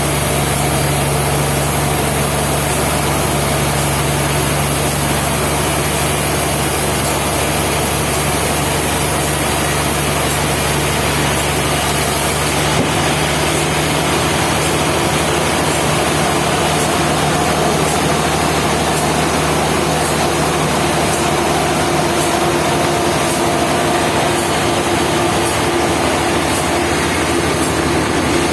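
Sawmill machinery running steadily with a constant engine drone; about halfway through the sound shifts as the high hiss drops away and a new steady tone comes in.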